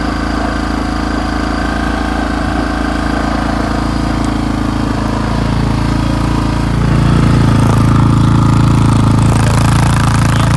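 Honda XR650R's single-cylinder four-stroke engine idling steadily while still cold, just after a cold start in hard frost. About seven seconds in the engine note grows louder and fuller.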